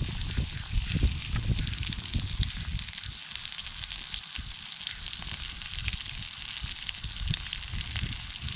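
Meat sizzling on a small iron griddle over a wood campfire: a steady hiss full of fine crackles, with an uneven low rumble underneath that is strongest in the first few seconds.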